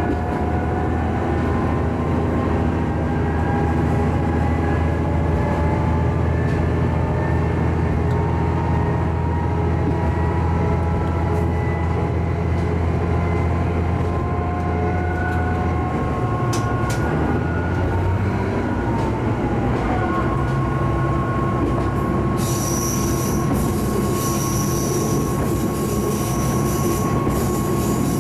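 Diesel railcar running along the track, its engine drone steady, then changing note about two-thirds of the way through. Near the end a high-pitched wheel squeal sets in, pulsing about every second and a half.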